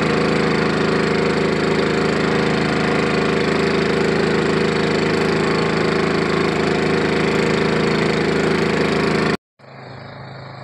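Small portable generator engine running steadily at constant speed. It cuts off abruptly about nine seconds in, leaving a much quieter steady hum.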